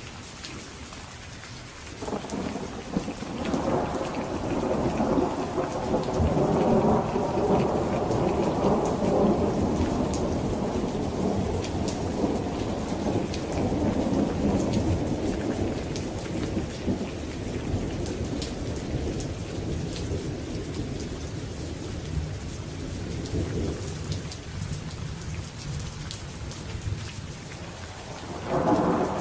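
Steady rain hissing, with a long rolling thunderclap that rises about two seconds in, swells, then dies away slowly over some twenty seconds. Another rumble of thunder begins near the end.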